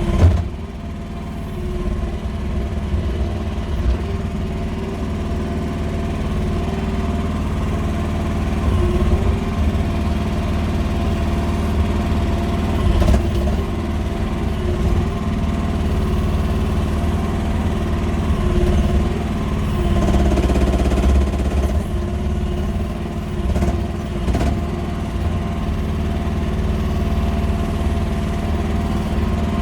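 QH13R mini excavator's engine running steadily, with small swells in level as it works. A sharp knock right at the start.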